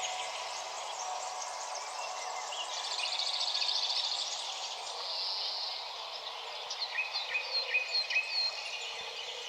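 Birds singing and chirping over a steady background hiss, with a rapid trill about three seconds in and a run of quick repeated chirps in the second half.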